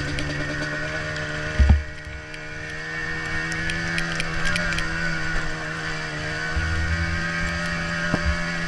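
Yamaha Blaster ATV's single-cylinder two-stroke engine running at a fairly steady pitch on a trail ride, with two short low thumps, one about two seconds in and one near the end.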